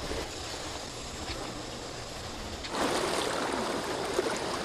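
Rushing water, a steady wash of noise that grows louder and fuller about three seconds in.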